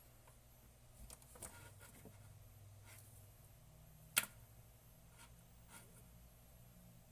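Faint handling noises of a thermometer probe and cable being moved about on a bench: light rustles and taps, with one sharp click about four seconds in.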